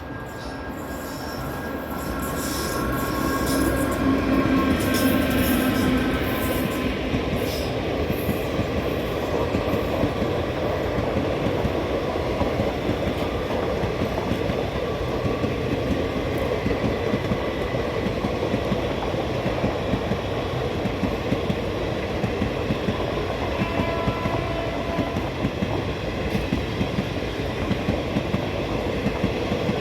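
Express passenger train hauled by a WAP-4 electric locomotive, passing at speed. The noise grows over the first few seconds as the locomotive comes past, then settles into a long, steady run of coach wheels clattering over the track joints. A short squeal from the wheels comes about two-thirds of the way through.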